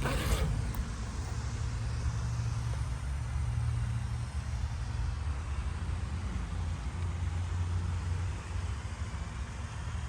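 Steady low rumble of a motor vehicle, with a hum that shifts a little in pitch partway through.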